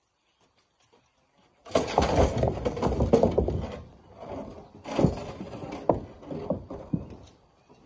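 Loads of rocks being tipped into a dump truck's bed, clattering and tumbling in two pours: one begins about two seconds in and the second about five seconds in.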